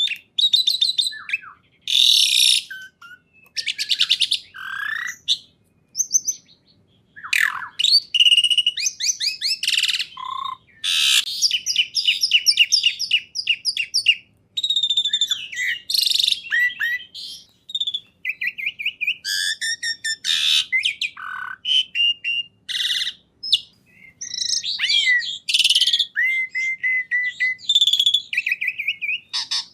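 A songbird singing a long, varied song of rapid trills, whistled glides and chattering phrases, broken by a few short pauses.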